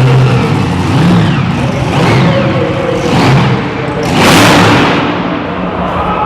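Mini Unlimited class pulling tractor engine running hard, revving in surges about once a second, with a loud rushing blast about four seconds in.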